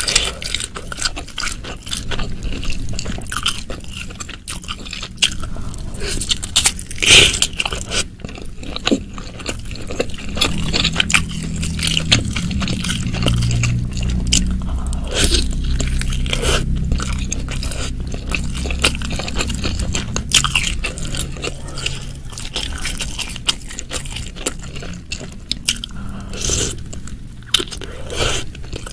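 Close-miked biting and chewing of a jumbo meatball and mushrooms in thick spicy sauce: wet, sticky mouth sounds with frequent crisp clicks, and a low rumble under the chewing through the middle stretch.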